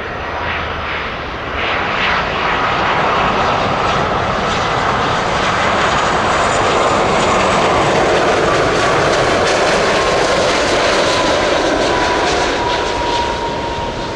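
Airbus A330-300 jet airliner on landing approach passing close by: a loud rush of engine and air noise swells up and holds, with a thin whine near the top of the middle range that falls slightly in pitch in the second half as it goes past.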